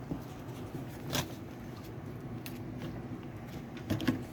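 A few light knocks and clicks, one about a second in and one near the end, from hands working on a washing machine's drain hose and its plastic clip.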